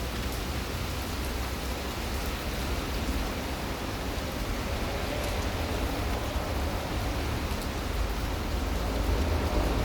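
Steady rain falling, an even hiss with faint scattered drop ticks, over a low rumble.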